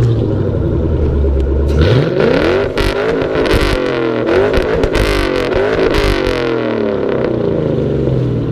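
A car engine with a very loud competition exhaust, revved hard from idle: the pitch climbs and falls through four or five revs with sharp cracks among them, then settles back to a steady idle.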